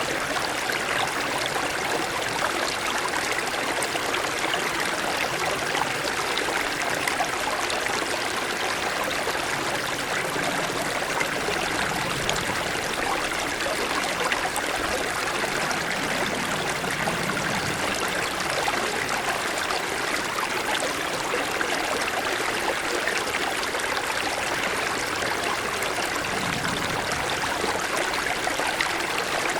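Mountain stream running steadily over snow-covered stones, a continuous rush of flowing water with fine trickling and splashing detail.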